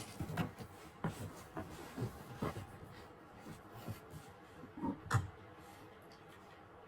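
Irregular soft knocks and thumps, about a dozen, from a toy figure being hopped down the stairs by hand; they stop about five seconds in.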